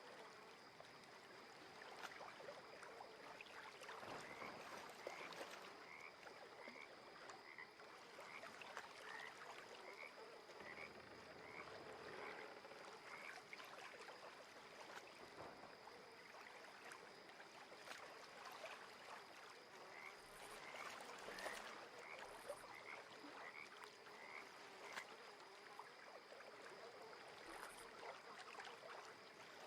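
Frogs calling, faint: runs of short, evenly repeated chirping calls, about one and a half a second, that pause midway and then start again, over a steady high tone.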